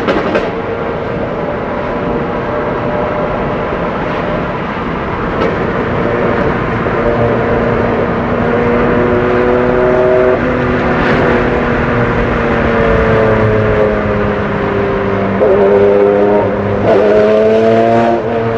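Porsche 996 RSR race car's flat-six engine heard from inside the cabin, its note climbing slowly and dropping back a couple of times, growing louder in two short pushes near the end. A few brief sharp cracks cut through.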